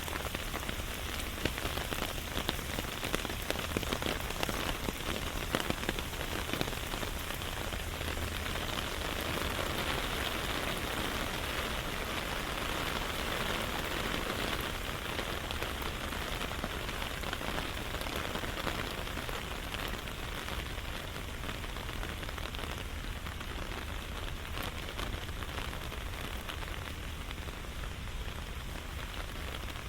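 Steady rain falling, with sharp ticks of individual drops close by, most of them in the first several seconds.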